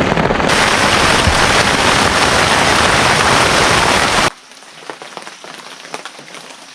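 Heavy rain pouring down in a loud, steady hiss. About four seconds in it cuts off abruptly to a much quieter background with faint scattered ticks.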